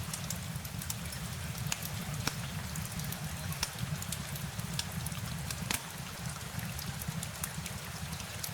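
Steady rain ambience: a continuous hiss over a low rumble, with many scattered sharp drop sounds landing at irregular moments.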